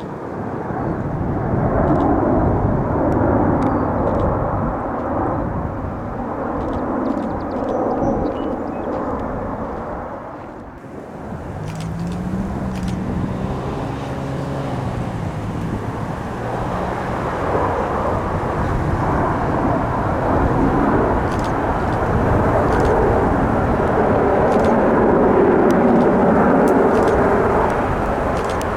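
Aircraft engine noise at an airfield: a loud, rumbling sound that swells, dips briefly about ten seconds in, then builds again toward the end, with a wavering hum just after the dip.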